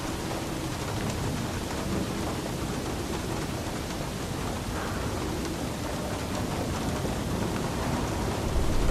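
Steady rain falling, with a low rumble of thunder that starts to build near the end.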